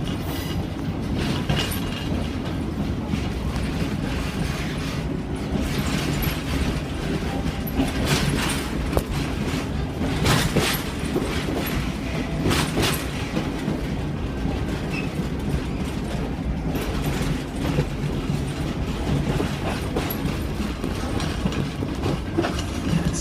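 Passenger train rolling along, heard from aboard: a steady low rumble with irregular clicks and clacks of the wheels over the rail joints.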